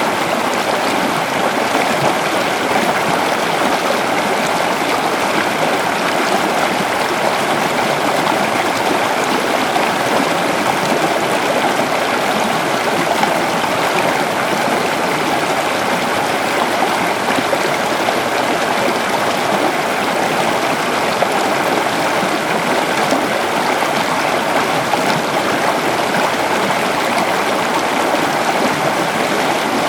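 A river flowing over a rocky bed, a steady rushing and babbling of water without let-up.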